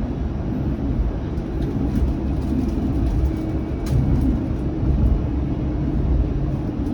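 Bombardier Flexity Outlook low-floor streetcar running, heard from inside the car: a steady rumble of wheels on rails and running gear with a faint steady hum, and a single sharp click about four seconds in.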